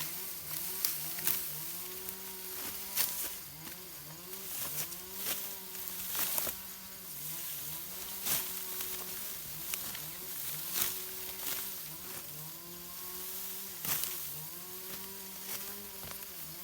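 Small motor buzzing steadily, its pitch dipping and recovering again and again, with sharp clicks and knocks over it.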